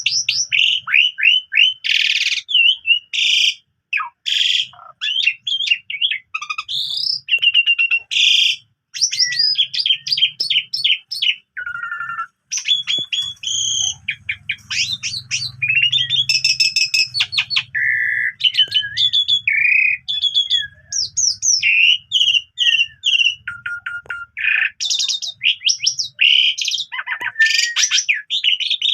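Asian pied starling (jalak suren) singing in full, non-stop song: a long, varied run of loud whistles, rising and falling glides, rapid chattering and trills, with barely a break.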